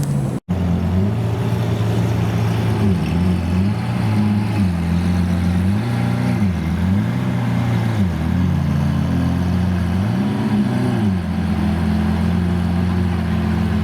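Supercar engine blipped repeatedly, its pitch rising and falling back several times in a row, then settling into a steady idle about eleven seconds in.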